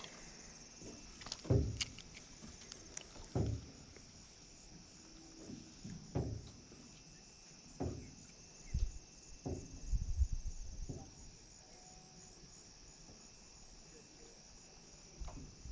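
Steady high-pitched insect chorus, with short low thumps and knocks every second or two.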